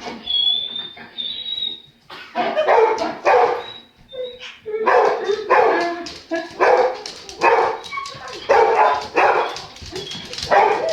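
Dogs barking over and over in quick succession, a bark roughly every half second or so, after a high-pitched whine in the first second or so; the dogs are being teased.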